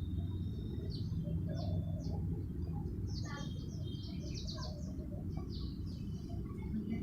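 Small birds chirping, a string of short high chirps that grows busier around the middle, over a steady low rumble.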